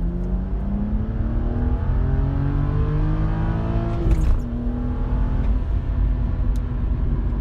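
BMW 330i's N52 straight-six, fitted with a BMW Performance exhaust and a straight-pipe midpipe delete, heard from inside the cabin while accelerating. The revs climb steadily, then drop suddenly about four seconds in at a manual upshift, and the engine pulls on at a steady pitch.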